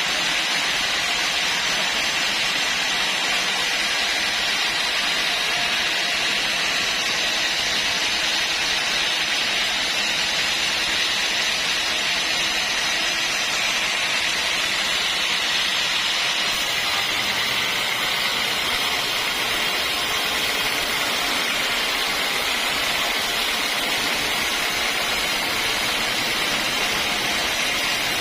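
Sawmill machinery running steadily, a constant even noise strongest in the high-middle range, with no breaks or knocks.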